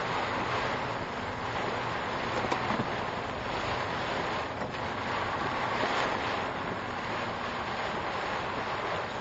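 Steady rush of typhoon wind and heavy rain on a car, picked up by the dashcam's microphone, swelling and easing slightly.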